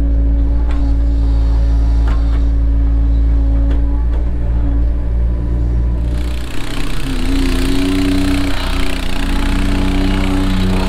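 Cat 307 excavator's diesel engine running steadily under a low rumble. About six seconds in, a loud hiss comes in and the engine note shifts, as the machine goes to work.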